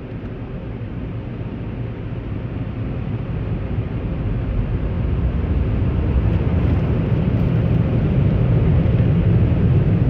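Automatic car wash machinery running, heard from inside the car: a steady low rumble that grows louder over the second half.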